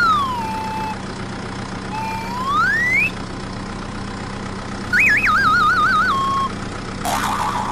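Cartoon whistle sound effects over a steady motor-like hum: a whistle gliding down, then one gliding up, then a warbling whistle trill. A short noisy burst follows near the end.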